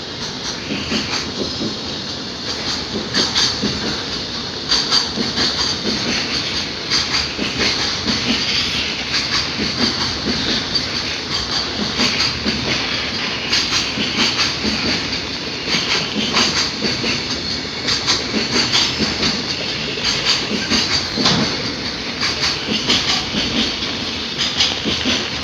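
JR Freight train 5051, hauled by an EH500 electric locomotive, rolling past. Its wheels clack over the rail joints in a long uneven run of knocks over a continuous rumble, with a steady high-pitched squeal above.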